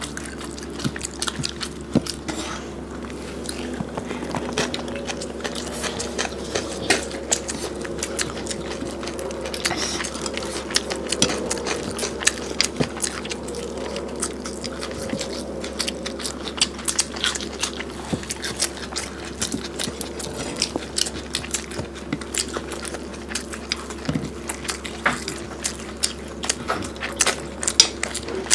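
Two people eating rice and curry by hand close to the microphone: chewing with many short, sharp wet clicks throughout, over a steady low hum.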